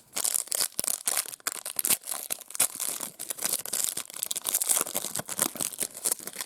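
Plastic trading-card pack wrapper being torn open and crumpled: dense crinkling and crackling that starts suddenly and stops near the end.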